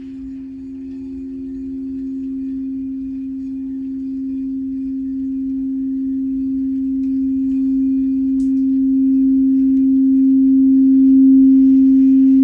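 Crystal singing bowl sounding a steady, sustained low tone with a second tone just above it, swelling gradually louder.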